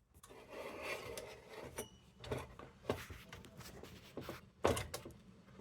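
Hands working on a metal kerosene lantern to fix a part that came loose: rustling and scraping with scattered sharp clicks and knocks of metal parts, and a brief squeak about two seconds in.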